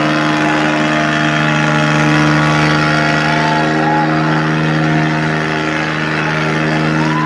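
Tractor diesel engine running at a steady, high speed, with faint voices in the background.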